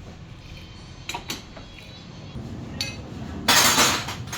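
Metal tools and parts clinking: a few sharp clinks, then near the end a loud rush of hiss lasting under a second.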